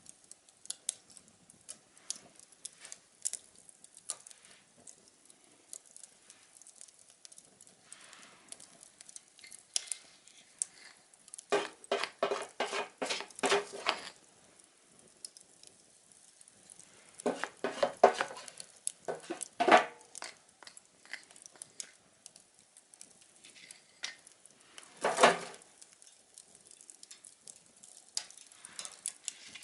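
Small tin-can twig stove being tended: irregular metallic clinks and crackles, with a few runs of quick clicking and one louder clank near the end.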